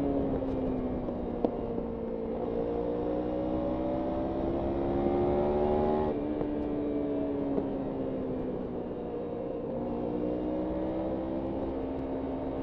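Kawasaki Ninja 300 parallel-twin engine on a ride, its revs rising and falling: they sink at first, climb for a few seconds, drop suddenly about six seconds in, fall off slowly and climb again near the end, over a steady rush of wind noise.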